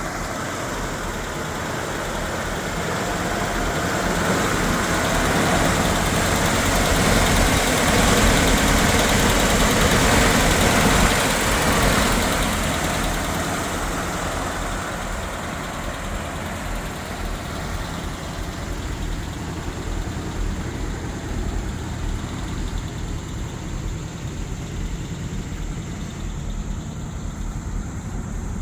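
1952 Ford F3 dump truck's engine running, growing louder to a peak about a third of the way in and then settling back to a steadier, quieter run.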